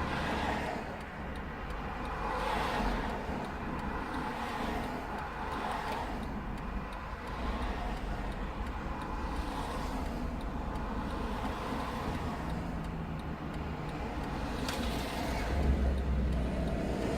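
Road traffic: a string of vehicles passing one after another, each a swell of tyre and engine noise over a steady low rumble, with a heavier low rumble near the end.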